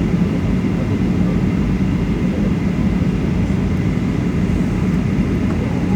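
Steady airliner cabin noise in flight, heard from inside the cabin: a constant low rumble of engines and airflow with a faint steady high tone over it.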